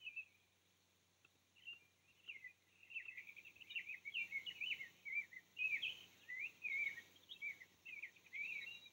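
Small birds chirping and twittering in quick, high, bending notes: a few scattered calls at first, then nearly continuous from about three seconds in.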